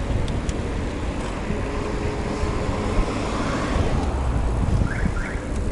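Steady rumble of wind buffeting the microphone and road noise while riding, with two short rising chirps near the end.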